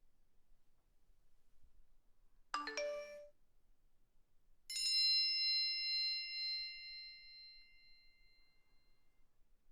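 Two phone alert tones: a quick run of a few chime notes lasting under a second, then a single bell-like ding that rings out and fades over about four seconds.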